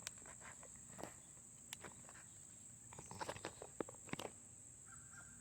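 Faint, scattered clicks and light knocks of someone moving about and handling things, over a steady high-pitched insect drone. The knocks come thickest about three to four seconds in.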